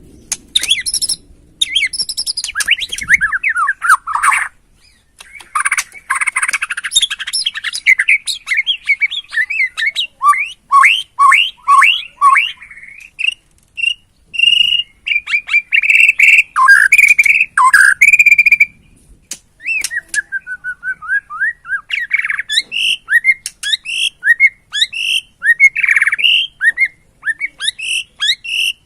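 White-rumped shama (Borneo murai batu) singing a loud, varied song: whistled phrases, runs of quick down-slurred notes and rapid repeated notes, with a few short pauses.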